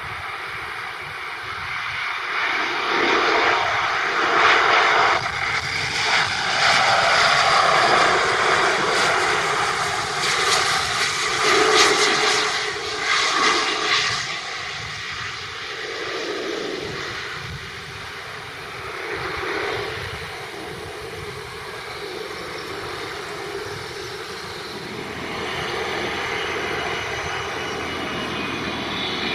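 Airbus A350-900 airliner on final approach to land, its Rolls-Royce Trent XWB jet engines passing low overhead. The noise builds over a couple of seconds, stays loud for about ten seconds, then fades away.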